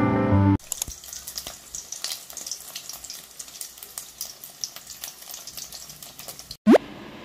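Hot dogs frying in oil in a non-stick pan: a steady sizzle full of small crackling pops. It starts just after soft piano music cuts off, and near the end a brief, loud rising sweep sounds.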